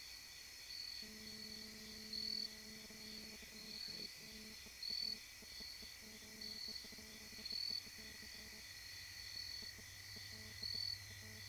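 Night insects calling: crickets chirping in short high pulses about once a second over a steady high trill. A faint low steady hum runs underneath from about a second in until near the end.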